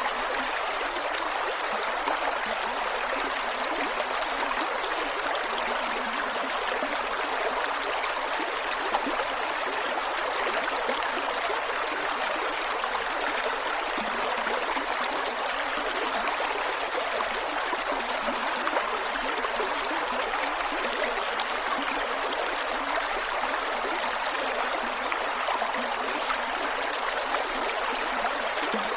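Creek water flowing over rocks, a steady rushing stream with gurgles.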